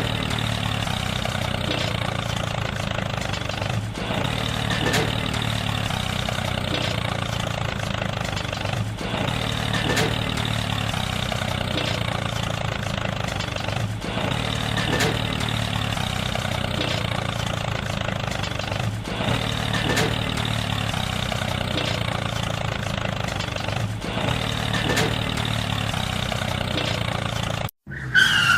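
Tractor engine running steadily: a recorded engine sound that repeats about every five seconds. It cuts off suddenly near the end.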